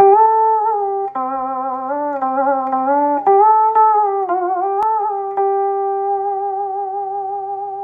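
Đàn bầu (Vietnamese monochord) played through its built-in amplified speaker: plucked notes that slide and waver in pitch as the rod is bent. A long note is held steady through the second half.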